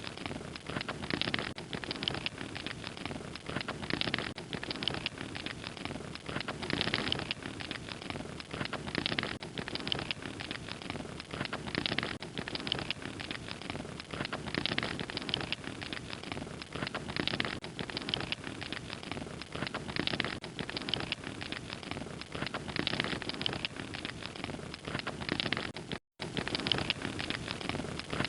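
Fire crackling steadily, a dense run of small pops and snaps over a soft rushing of flames. The sound cuts out completely for a split second near the end.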